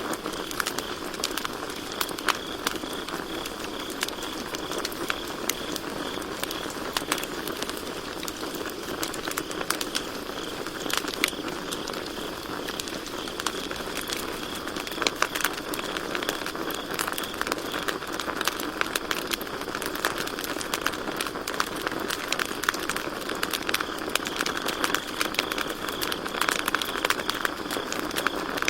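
Campfire crackling and popping steadily with many irregular sharp snaps, over a constant high chirring of crickets.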